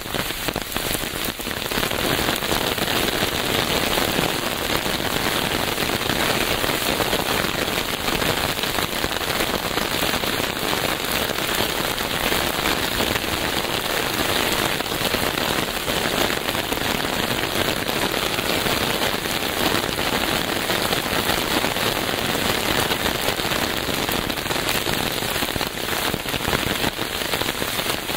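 Steady, heavy rain falling on a surface, a dense patter of many drops.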